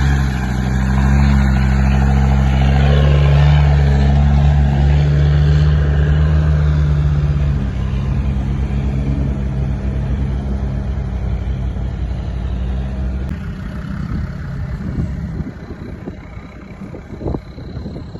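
Off-road 4x4's engine running hard under load at steady revs, loud for the first half. It then drops back and fades away after about thirteen seconds, leaving fainter rumbling and noise.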